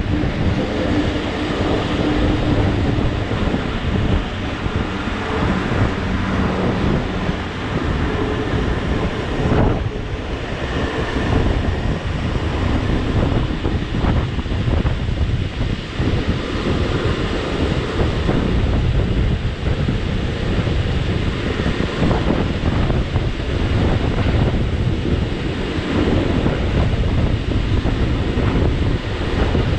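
Rhaetian Railway Bernina line train running along the track: steady wheel and rail noise mixed with wind rushing over a microphone mounted at the carriage window.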